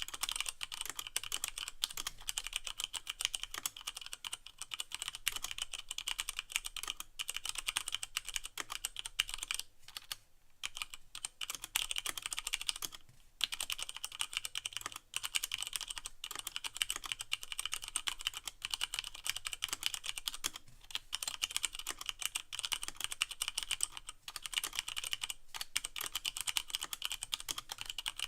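Typing on a Leopold FC660M mechanical keyboard with Cherry MX Brown switches and no O-rings: a fast, continuous stream of key clicks and keycap clacks, with brief pauses about ten and thirteen seconds in.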